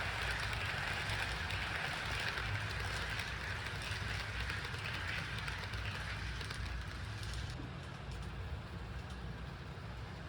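HO-scale Walthers SD70ACE model locomotive running on the track: a steady electric-motor whir and wheel-on-rail hiss, which grows fainter about three-quarters of the way through.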